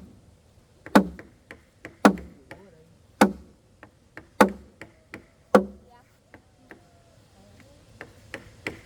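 Regular heavy blows of a tool striking wood, about one a second, five strong strokes in a row. A few lighter, quicker taps follow near the end.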